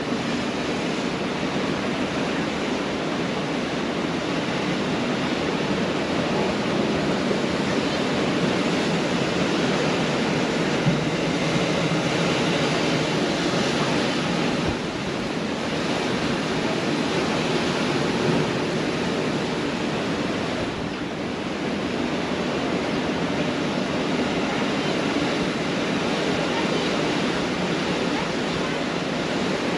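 Pacific Ocean surf breaking and washing on the shore: a steady rushing of waves that swells and eases gently, dipping briefly twice.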